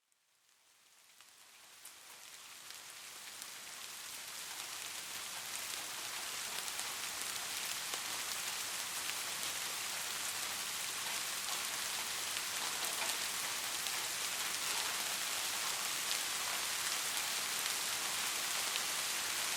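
Steady rain falling, a dense hiss with fine ticks of individual drops, fading in from silence over the first several seconds and then holding even.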